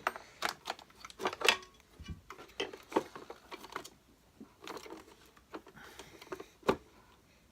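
Handling noises from a Hoover Senior Ranger upright vacuum being worked on by hand: a run of small clicks and knocks, thinning out after a few seconds, with one sharper knock near the end.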